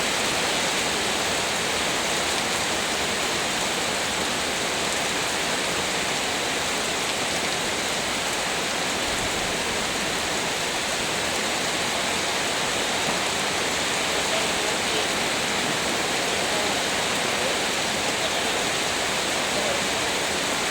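Heavy rain pouring down: a steady, dense hiss with no let-up.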